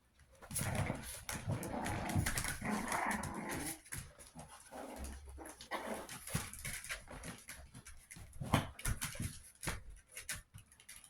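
Chihuahua puppies, about two months old, making small vocal noises for the first few seconds, then a run of short clicks and scuffling sounds.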